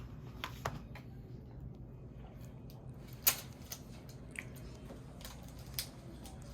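Hands handling the Apple Pencil's box and packaging: scattered light clicks and taps, the sharpest about three seconds in, over a low steady hum.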